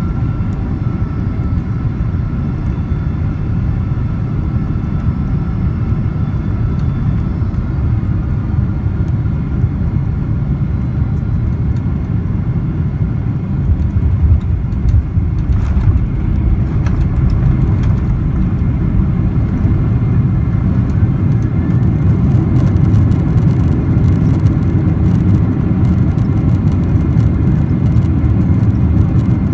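Boeing 767 jet engine noise during landing: a loud, steady low rumble with a faint whine early on. It grows louder about halfway through, and rattling clicks come in near the end, fitting the engine going into reverse thrust.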